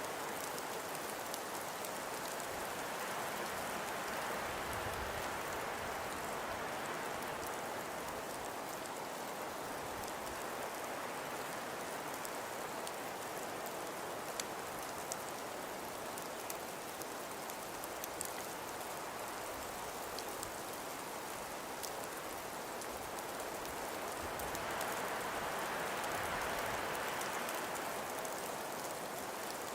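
Wind and blowing snow: a steady hiss that swells in a gust about four seconds in and again near the end, with faint scattered ticks.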